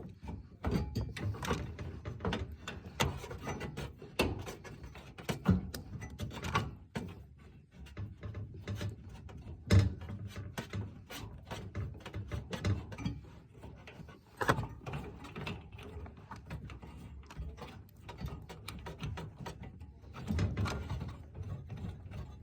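Irregular clicks, knocks and light scrapes of hand tools and metal parts being worked, with one sharper knock about ten seconds in.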